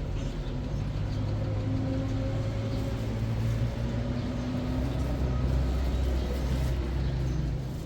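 A motor vehicle's engine running with a steady low hum; the sound drops off abruptly near the end.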